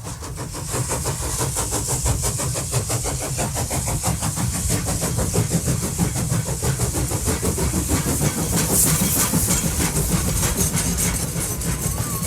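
Motor vehicle running on the road: steady engine and road noise.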